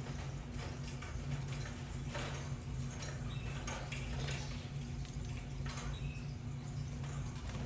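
Budgerigars in their cage making scattered scratching and rustling noises, with a couple of faint short chirps, over a steady low hum.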